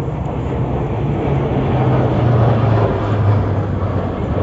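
Alpha Jets of the Patrouille de France flying past. Their jet noise swells to a peak about halfway through, and the low hum under it falls in pitch as they pass.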